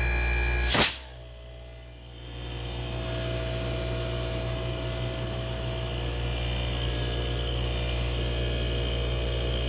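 A loud click about a second in, then an inverter air-conditioner compressor motor spins up about two seconds in and runs steadily with a hum and a high electronic whine. It is running normally on a control board repaired for an F1 compressor-starting fault.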